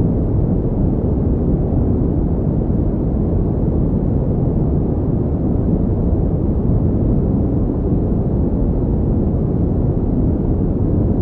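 Steady pink noise played continuously: an even, unchanging hiss weighted toward deep, rumbling pitches.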